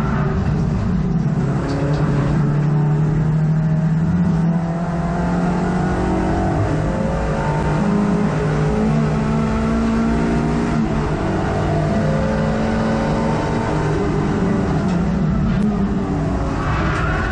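Hot hatch race car's engine heard from inside the cabin at racing speed. The engine note climbs and drops again and again as the driver accelerates, changes gear and lifts for corners.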